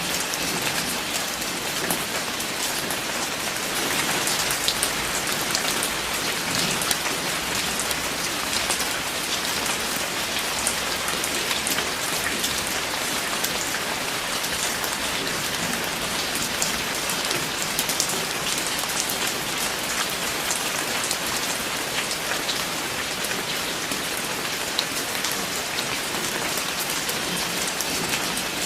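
Steady rain falling, a constant even wash with many individual drop impacts ticking through it.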